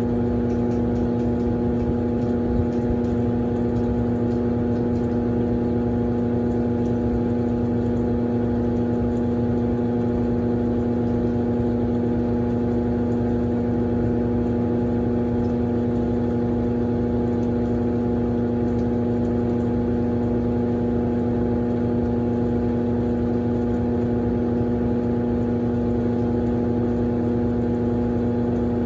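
Consul Facilite CWG12 top-loading washing machine running steadily on its drain cycle: a constant motor hum with a strong steady tone and no change in pitch or level.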